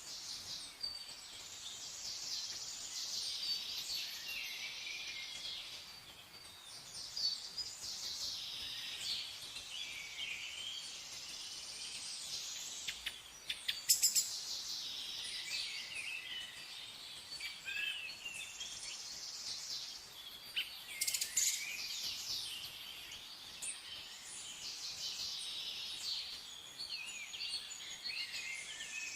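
Many small birds chirping and singing at once in a steady dawn-chorus-like mix of short high calls and warbles, with a couple of sharper, louder chirps about halfway through and again about two-thirds of the way in.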